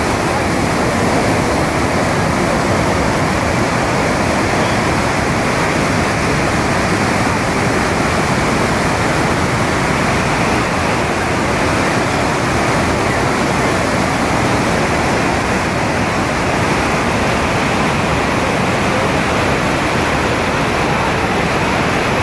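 The Rhine Falls, a large waterfall, with loud, steady rushing of heavy falling water and no change throughout.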